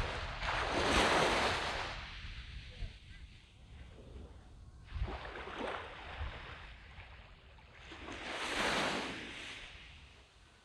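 Small sea waves breaking and washing up a sand beach: three swells that rise and fade, a few seconds apart, the loudest about a second in.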